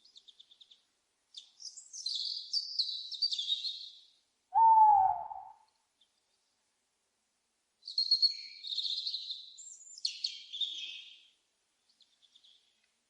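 A single loud owl hoot, falling slightly in pitch, about four and a half seconds in. Small birds twitter and chirp in high, quick bursts before and after it.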